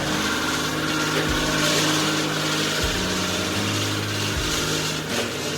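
ZL550 snowmobile's two-stroke engine running steadily with the no-spark fault fixed; the pitch holds level and shifts in small steps a few times.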